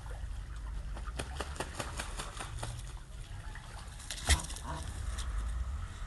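Ducks on the water: light splashing and a run of small clicks, with one sharp knock about four seconds in, over a low steady rumble.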